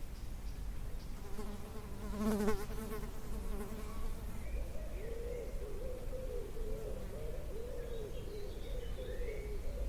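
A flying insect buzzing close by. It swells to a loud close pass about two seconds in, then carries on as a higher, wavering hum.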